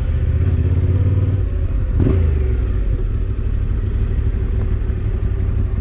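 Motorcycle engine idling steadily, with a brief knock about two seconds in.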